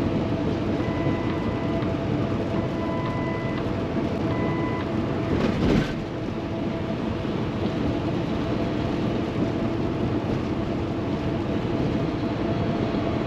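Steady drone inside the cab of a 2016 Kenworth T680 semi truck under way on the highway: its PACCAR MX13 diesel engine and road noise, with a brief louder whoosh about five and a half seconds in.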